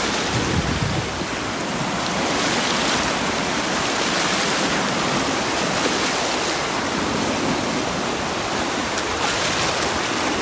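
Small Gulf waves washing in at the shoreline: a steady rushing wash of surf.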